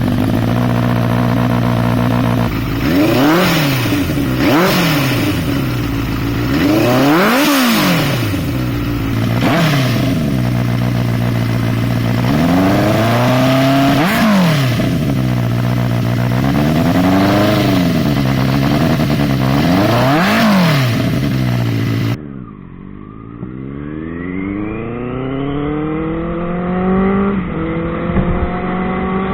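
Benelli TNT 600i's 600cc inline-four with an IXIL X55 aftermarket exhaust, idling and blipped repeatedly, the revs rising and falling sharply about eight times. About two-thirds in, a duller recording cuts in of the bike accelerating hard, the engine note climbing steadily, with a brief dip at a gear change near the end.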